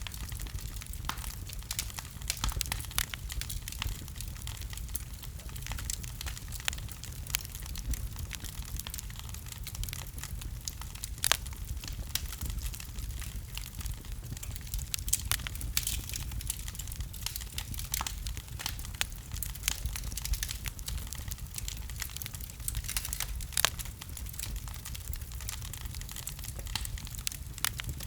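Fire crackling in a fireplace: irregular sharp pops and snaps, some louder than others, over a steady low rumble.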